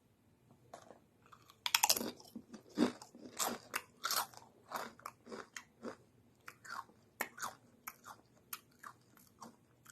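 A person biting into and chewing Doritos Screamin Sriracha tortilla chips: a loud crunching bite about two seconds in, then irregular crunching as the chips are chewed.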